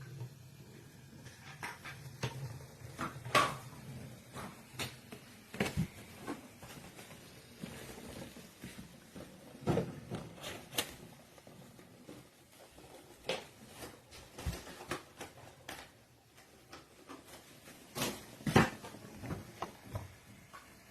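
Irregular clicks and knocks of hard objects being handled and set down, the loudest about three seconds in and again near the end.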